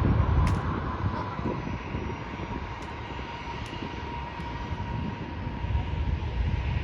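Airliner engines running as a plane passes the airport: a rumble with a steady high whine, fading over the first couple of seconds and swelling slightly again near the end.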